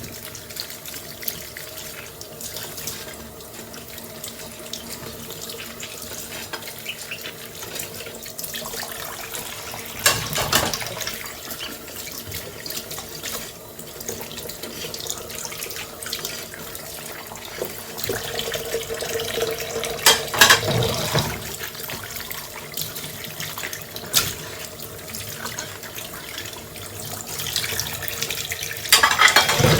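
Kitchen tap running steadily into a sink during dishwashing. A few sudden louder clatters come now and then.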